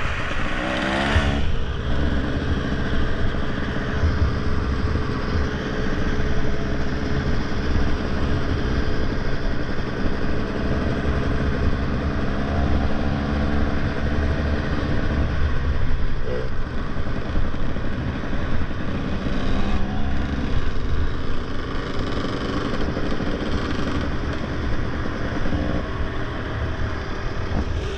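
A motorcycle engine running while riding, its pitch rising and falling slowly with the throttle, under a heavy rumble of wind on the microphone.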